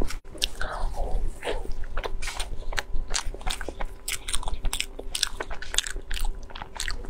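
Close-miked eating sounds of chocolate cake roll being chewed and bitten: a quick, irregular run of short wet clicks and smacks from the mouth.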